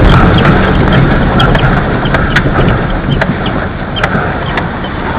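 A vehicle's engine running with a steady low hum that slowly gets quieter, with scattered sharp clicks over it.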